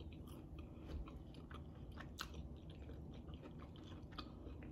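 Close-miked chewing of a mouthful of chicken and cheese quesadilla, mouth closed: faint, with small mouth clicks scattered throughout and a sharper one a little after two seconds in.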